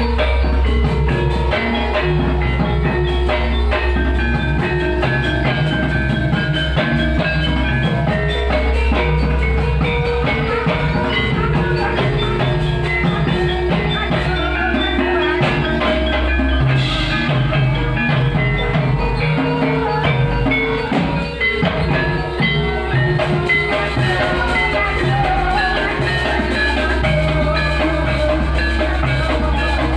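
Live ebeg accompaniment music: tuned mallet percussion with drums playing one continuous piece at a steady loudness.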